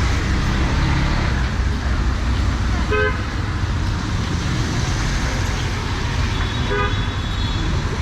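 Road traffic on a rain-wet city street: a steady low engine rumble over a hiss of tyres and rain, with two short horn toots, about three seconds in and again near seven seconds.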